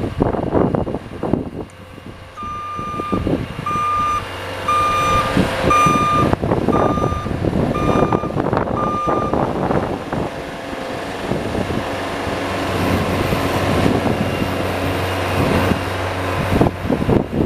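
A vehicle's reversing alarm beeping about seven times, roughly once a second, over a steadily running engine and the rough scraping rumble of snow plowing.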